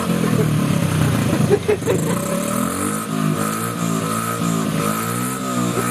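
Small motorbike engine running, its pitch rising and falling as the throttle is twisted on and off, with a brief knock about a second and a half in.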